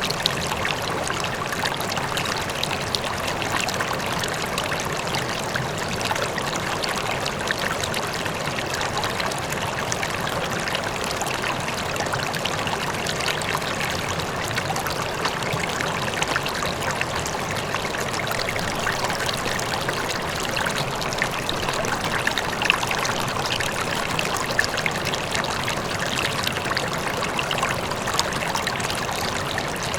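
River water flowing and splashing over stones, a steady rushing with fine trickling detail, with a faint distant waterfall blended into the rush.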